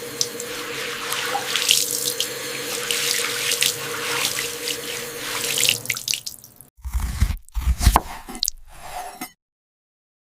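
Water running from a tap into a sink, a steady splashing hiss. After about six seconds it gives way to a few short knocks and splashes.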